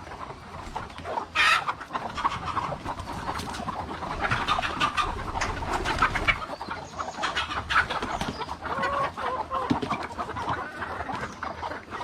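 Chickens clucking on and off, with many small clicks and rustles among them and a short, sharp noisy burst about a second and a half in.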